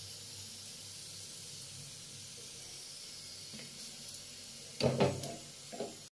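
Steady faint hiss of a paratha cooking on a hot tawa over a gas flame. About five seconds in comes a short clatter of knocks as the cook handles things at the stove.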